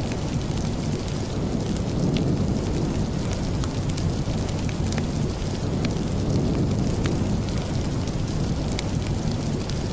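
Steady rain with a deep, even rumble, mixed with the irregular sharp crackles and pops of a wood fire burning in a fireplace.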